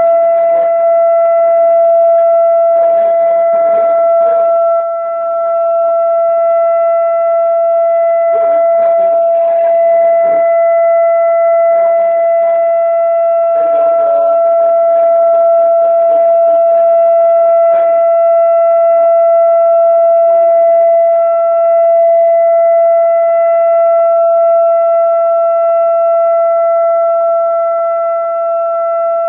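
Tornado warning siren sounding one loud, steady, unwavering tone, the alert that follows the 'Tornado is expected, seek shelter immediately' broadcast.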